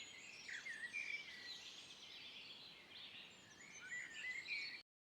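Several small birds chirping and twittering, faint, over a low steady hiss of outdoor background noise. The sound cuts off abruptly just before the end.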